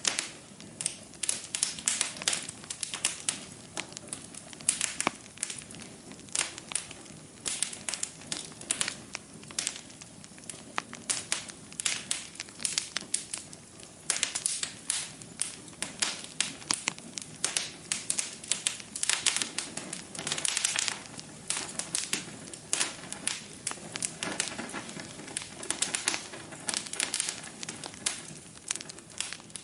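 Wood fire crackling and popping in a fireplace: dense, irregular snaps over a low hiss of burning, with a busier flurry of pops around two-thirds of the way through.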